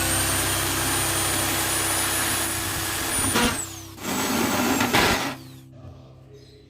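A small high-speed power tool running in two bursts, a longer one and then a shorter one about a second later. Each has a high whine that spins up at the start and winds down at the end, with harsh cutting noise throughout.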